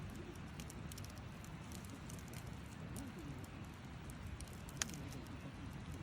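Wood fire crackling, with scattered small pops and one sharper pop a little before the end, over a steady low rumble.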